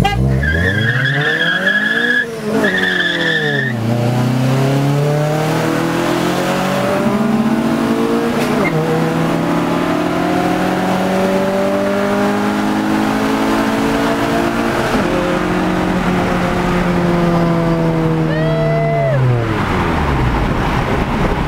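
Straight-piped, B18C1-swapped 1990 Honda Civic hatchback accelerating flat out from a standing start, heard from inside the car. The revs climb and drop back at each upshift, with shifts at about 2 s and near 15 s. The tyres squeal through the first few seconds of the launch, and near the end the revs fall away as the car lifts off.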